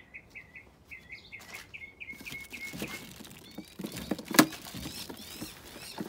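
A small bird sings a quick run of repeated chirps, about four or five a second, through the first half. Thin plastic wrapping crinkles and rustles as hands pull at it, with one sharp crackle about four and a half seconds in that is the loudest sound.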